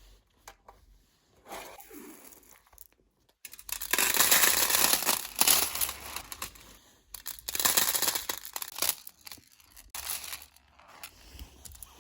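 Crinkling and tearing sounds of something being handled at close range, in two loud stretches, about three and a half seconds in and again about seven seconds in, with quieter rustles in between.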